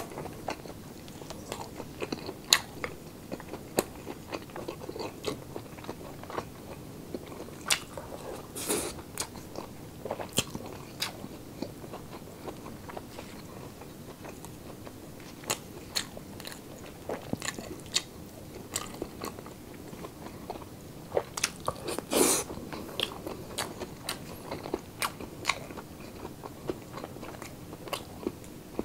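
A person chewing and crunching on a meal of pork sisig and braised beef close to the microphone, with many sharp crunches scattered through and a louder burst of crunching about 22 seconds in.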